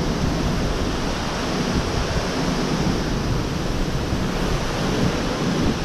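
An 80-mph severe-thunderstorm wind gust rushing steadily, with heavy wind buffeting on the microphone.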